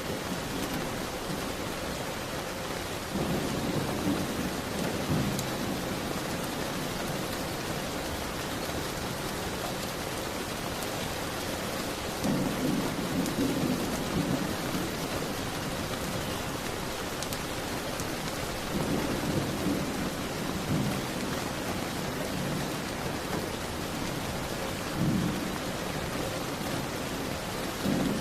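Steady rain with low rumbles swelling up every several seconds and an occasional faint crackle from a wood fire.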